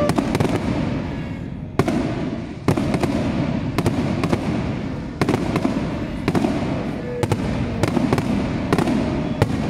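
Aerial firework shells bursting overhead: a run of sharp bangs, irregular and at times several within half a second, over a continuous din of crackle and rumble from the display.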